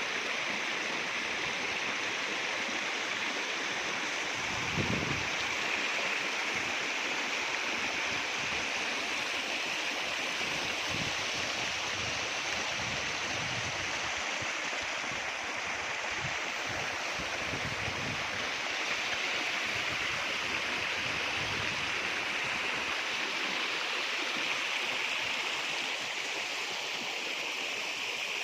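Steady rush of a flowing stream, with a few brief low thumps.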